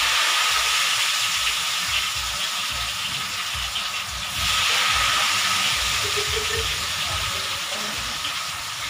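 Tofu pieces sizzling as they deep-fry in hot oil in a wok, a dense steady hiss that swells again about four seconds in.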